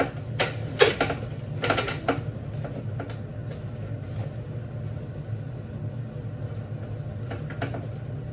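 A kitchen knife knocking on a cutting board several times in the first two seconds as bacon is cut, then stopping, over a steady low hum.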